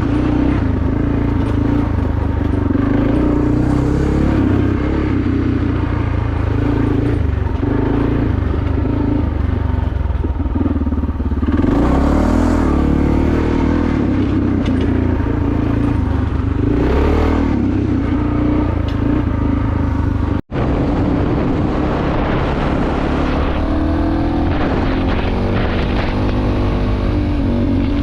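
Suzuki DR650SE's single-cylinder engine through a SuperTrapp exhaust, running under way with its pitch rising and falling as the throttle and gears change. The sound drops out for a moment about twenty seconds in.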